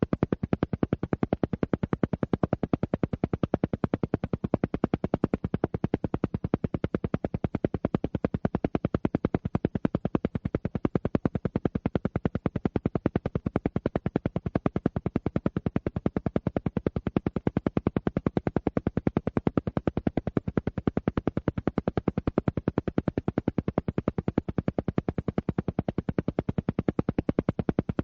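Alpha-wave brainwave-entrainment track: a steady train of rapid, evenly spaced pulses that never changes pace, meant to lead the listener into an alpha state.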